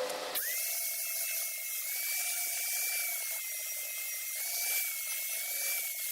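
Electric sander: a short burst of harsh noise, then the motor whines back up to speed just under half a second in and runs steadily, with a high-pitched whine that wavers slightly under load.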